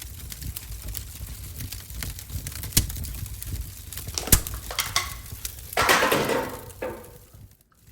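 Wood-burning stove fire crackling, with scattered sharp pops. About six seconds in comes a louder rustle lasting under a second, and the sound cuts out briefly just before the end.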